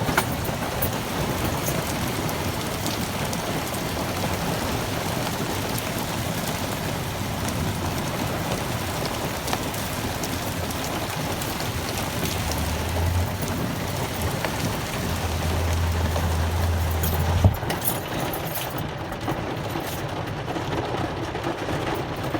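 Heavy, severe downpour: torrential rain pouring down in a steady, dense hiss.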